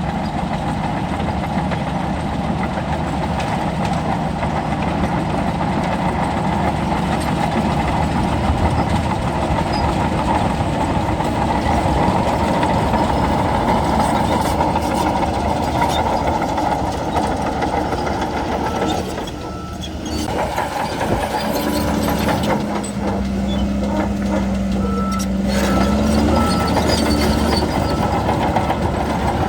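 Bulldozer's diesel engine running steadily, dropping off briefly about two-thirds of the way through, then picking back up with a steady hum that rises slightly in pitch near the end.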